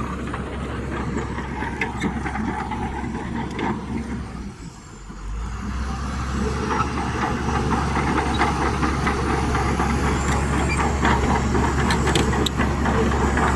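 Heavy diesel earthmoving machinery at work. The engine runs steadily, falls away briefly about four to five seconds in, then comes back louder with rapid metallic clanking.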